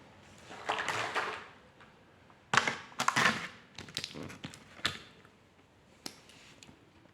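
Drawing tools and paper being handled: irregular clicks, taps and short scratchy rustles, the loudest cluster about two and a half to three and a half seconds in, with a few single sharp clicks near the end.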